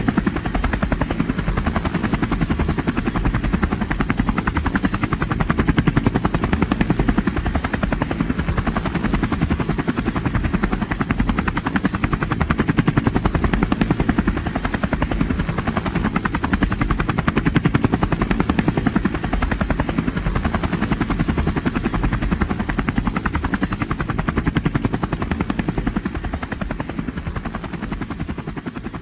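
Steady, loud whirring with a fast, even pulse, strongest in the low range, easing off slightly near the end.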